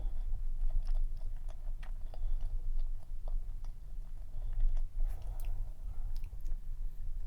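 Chewing a dense cream cheese cup cookie, with many small, sharp clicks.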